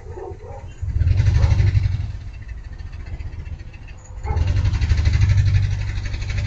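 Car engine accelerating: a deep engine rumble surges up suddenly about a second in, eases off, then surges again about four seconds in and holds.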